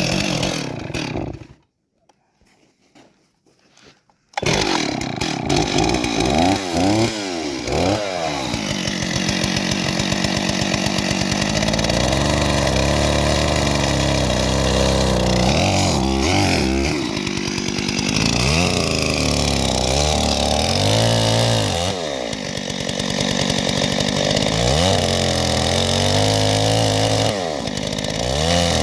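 Chainsaw running and revving up and down repeatedly as it notches out a wooden log. There is a gap of about two seconds with almost no sound near the start.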